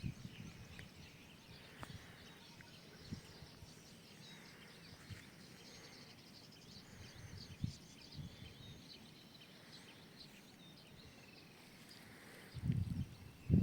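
Faint outdoor ambience of small birds chirping, many short high chirps. There are a few soft clicks, and a low rumble starts about a second before the end.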